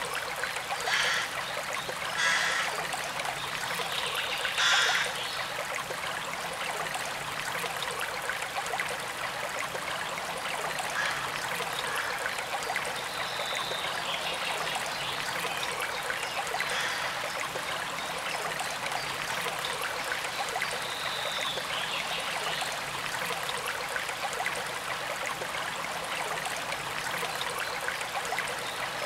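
Forest stream running and trickling steadily, with three brief louder sounds in the first five seconds. A couple of faint high bird notes come through about halfway.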